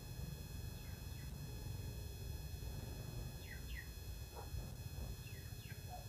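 Small birds chirping: short falling chirps that come in pairs about every two seconds, over a steady low rumble.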